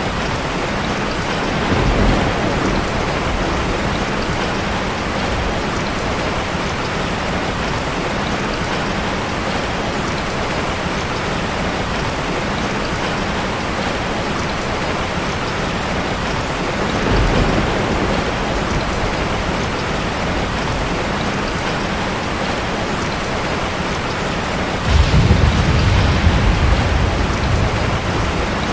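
Heavy rain pouring steadily. Deep rumbles swell up about two seconds in and again around seventeen seconds in, and a louder one starts suddenly near the end and lasts a few seconds.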